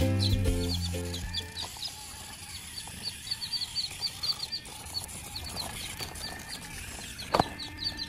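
Birds chirping over and over in short high notes, as backing music fades out in the first second or so. A single sharp click sounds near the end.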